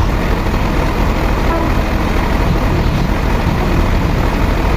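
Loud, steady drone of heavy machinery running.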